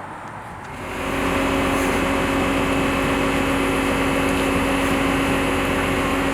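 An engine comes in about a second in and runs steadily at an even pitch, a constant hum.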